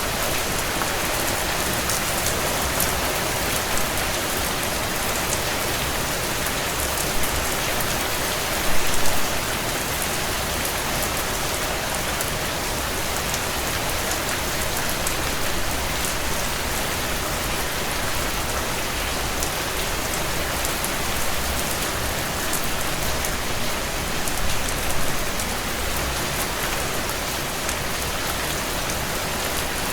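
Heavy rain on window panes, a steady dense hiss of drops, with the crackle of a wood fire in a stone fireplace mixed in. A few brief louder swells stand out about 9 and 25 seconds in.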